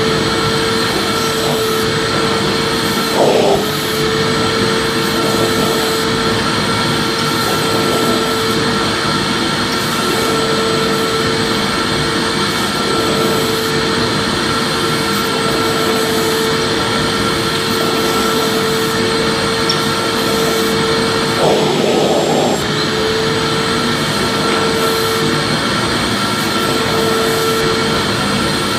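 Vacuum cleaner running steadily, a constant motor whine over a rush of airflow, with a brief change in tone about three seconds in and again near 22 seconds.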